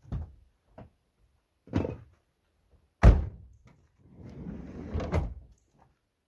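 Renault Kangoo's sliding side door being worked: a few thunks and knocks, a hard slam about three seconds in, then the door rolling along its track and clunking to a stop near the end.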